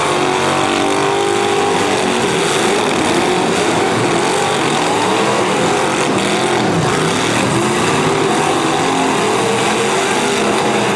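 Several demolition derby cars' V8 engines revving hard at once, their pitches rising and falling over one another.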